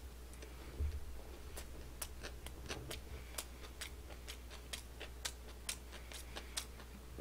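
Chewing a mouthful of kimbap close to the microphone: a string of soft, irregular wet mouth clicks, a few a second, with a soft thump about a second in, over a low steady hum.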